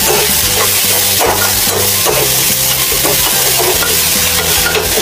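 Pork pieces sizzling in a metal wok while a metal spatula stirs and scrapes them, with a few short scrapes against the pan. Background music with a steady, changing bass line plays underneath.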